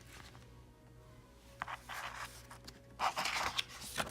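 A magazine page being turned: a short papery rustle about three seconds in, with a few light handling taps before it.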